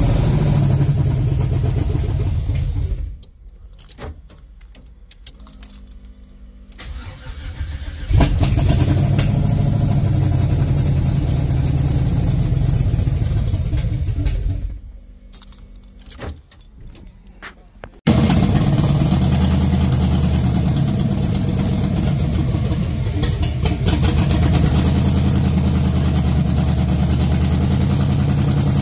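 LS-swap V8 engine in a Chevrolet Caprice on its first test start: it fires and runs, goes quiet about three seconds in, runs again from about eight seconds to about fourteen, then comes back in suddenly and runs steadily.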